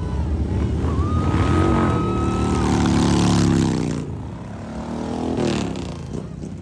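Motorcycle engine under way, pulling up in pitch about a second and a half in and holding before easing off near four seconds, then picking up briefly again, over a steady low rumble.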